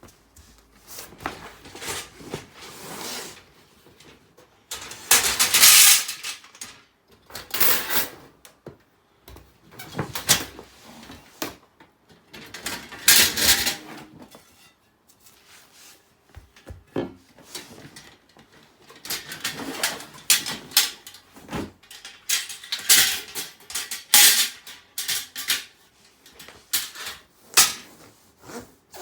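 Stainless steel parts of a Snow Peak fire stand and grill bridge being handled and fitted together. Irregular metal clanks and scrapes come in bursts with short pauses between them, and the loudest scrapes last a second or two.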